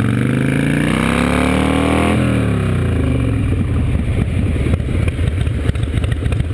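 Motorcycle engine accelerating, its pitch climbing for about two seconds, then the throttle closes and the revs fall away. It then settles into lower, rougher, uneven running.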